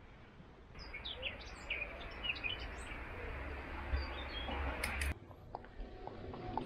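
Birds chirping in many short rising calls over a steady low rumble and hiss, starting about a second in and cutting off abruptly about five seconds in, after which only faint ticks remain.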